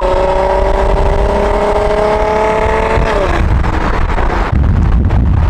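A car engine pulling hard at full throttle, its pitch climbing steadily for about three seconds, then dropping sharply as it shifts or lifts off. A deep low rumble follows near the end.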